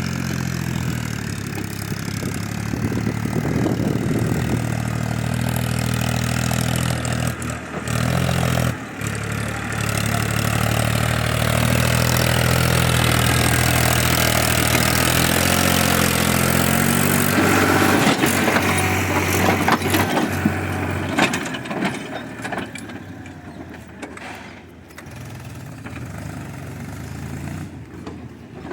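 Tractor engine running steadily while pulling a trolley, with a brief dip about nine seconds in, then fading away after about twenty seconds.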